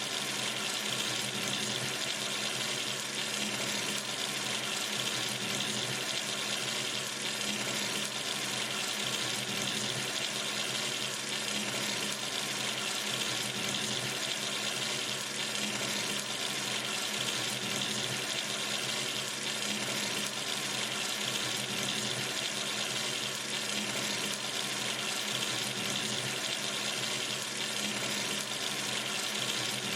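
Kitchen or bathroom sink tap running steadily, water streaming from the faucet into the basin with an even hiss.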